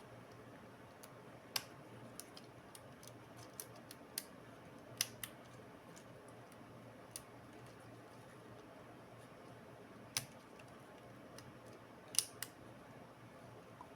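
Light, sharp clicks and taps, about a dozen at irregular intervals, from small laptop parts and hand tools being handled during repair, over a faint steady hum.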